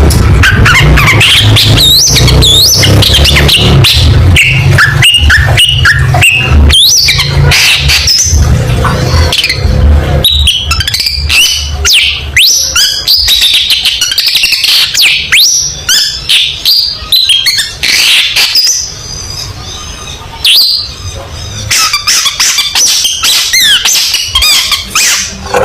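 Long-tailed shrike (cendet) singing in quick rapid-fire bursts of varied chirps, short whistled glides and harsh rasping notes. A low rumble runs under the first ten seconds. The calls come in sparser, spaced-out bursts in the second half.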